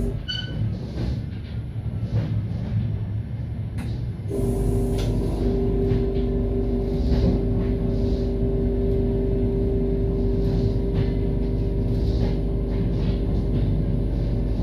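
Moving passenger train heard from inside the carriage: a steady low rumble with a droning hum that drops out briefly and returns abruptly about four seconds in.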